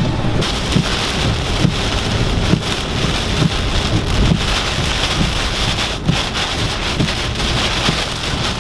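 Hurricane rain and wind beating on a moving car, heard from inside the cabin as a loud, steady rush.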